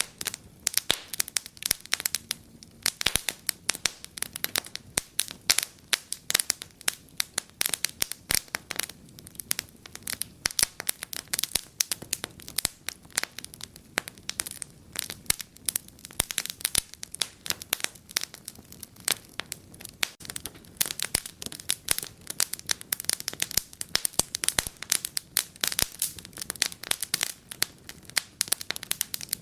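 Wood fire burning in a fireplace, crackling and popping with many quick sharp snaps at irregular intervals over a soft low rush of flame.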